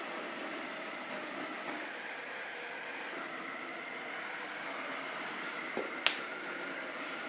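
Robot vacuum cleaner running with a steady whir from its fan and brush motors. A faint knock comes just before six seconds in, then a single sharp click.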